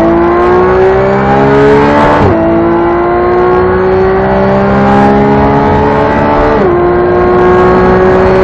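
Porsche 911 GT3's flat-six engine under hard acceleration, heard from inside the car. Its pitch climbs steadily through the gears, with two quick upshifts: one about two seconds in and another about two-thirds of the way through.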